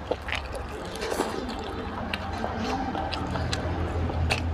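Close-miked wet chewing and lip smacking of a person eating oily mutton fat curry by hand, with many short, sharp, squishy clicks.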